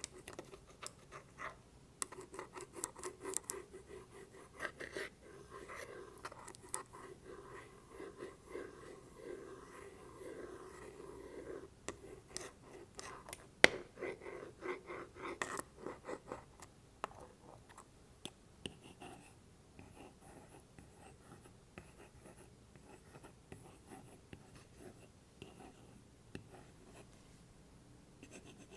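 Apple Pencil tapping and scratching on a wooden block: quick clusters of sharp taps mixed with stretches of scraping. The taps grow quieter and sparser after about seventeen seconds.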